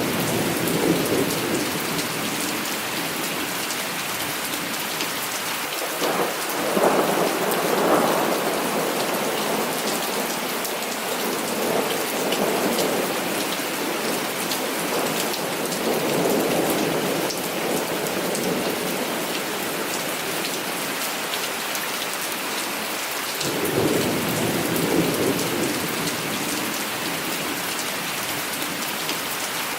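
Heavy rain falling steadily with rolling thunder. The thunder rumbles in about five slow swells over the steady hiss of the rain, the loudest a few seconds in and again near the end.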